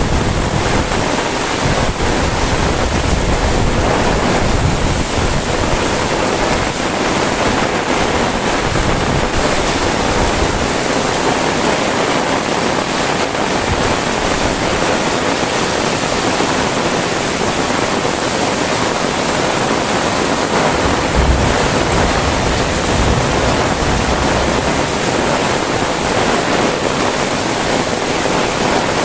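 Heavy rain pouring steadily, a dense, even hiss. Gusts of wind buffet the microphone with a low rumble now and then, most strongly near the start and about two-thirds of the way through.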